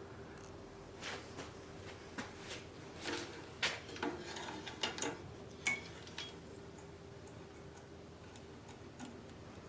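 A scattered run of light clicks and knocks for a few seconds, then quieter, over a faint steady hum.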